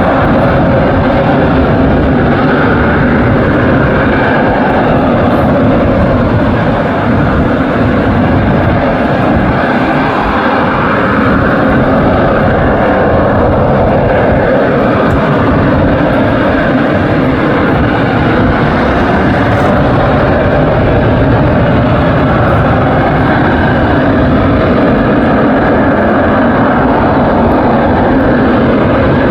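AV-8B Harrier's Rolls-Royce Pegasus turbofan jet engine running loud and steady, with a slowly rising and falling tone in the roar.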